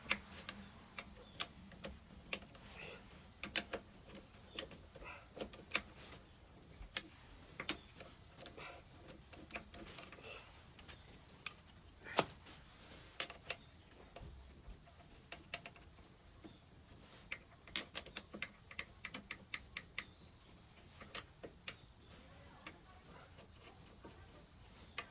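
Irregular light metallic clicks and knocks of tools and a car jack being handled and set in place for a tyre change, with one sharper knock about twelve seconds in.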